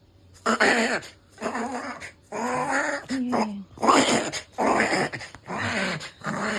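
Pugapoo dog reverse sneezing: a run of about seven harsh breaths pulled in hard through the nose, each about half a second long, coming at roughly one a second.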